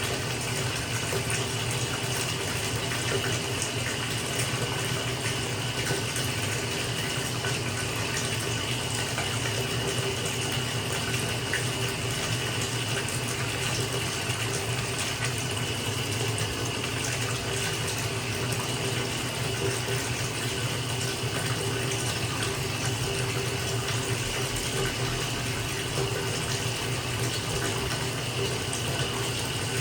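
Bathtub filling from the tap: a steady stream of water pouring into the tub.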